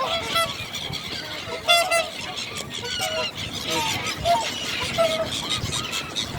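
A large flock of birds calling all at once while competing for food, many short overlapping calls.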